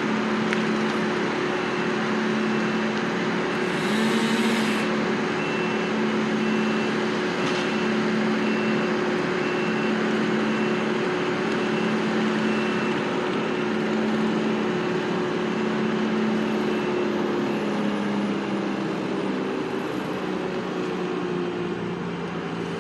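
Heavy vehicle or work machine running steadily while its reversing alarm beeps about once a second, the beeping stopping a little over two-thirds of the way through. A short hiss about four seconds in.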